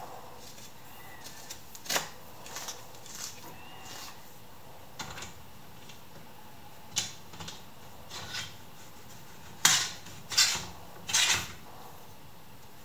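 Scattered clicks and knocks of small workshop parts being handled and set down, with three sharper knocks about a second apart near the end.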